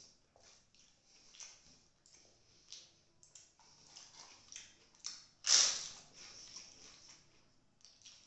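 Close-miked eating sounds: soft wet chewing, smacking and small clicks from a mouthful of egg biryani eaten by hand. About five and a half seconds in comes one loud, crisp crunch of a roasted papad.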